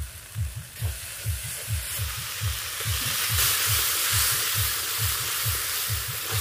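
Onion, garlic, ginger and tomato masala sizzling in mustard oil in an iron kadai while a metal spatula stirs it; the sizzle grows louder about halfway through. A regular low thudding, about two or three a second, sounds beneath it.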